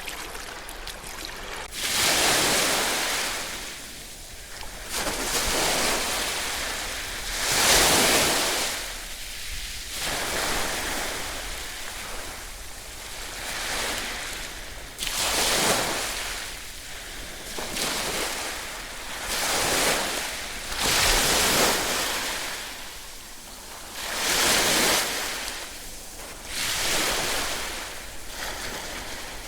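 Ocean waves breaking, one surge of surf after another every two to three seconds.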